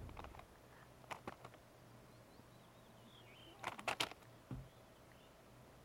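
Quiet lakeside stillness with a faint wavering bird chirp. A few sharp clicks come about a second in, a louder burst of clicks a little past the middle, and then a single dull thump.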